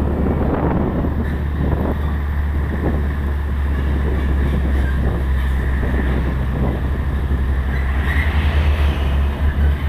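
Heavy diesel truck on the move: a loud, steady low rumble of engine and road noise with a hiss over it. Near the end the low rumble turns uneven and fluttering.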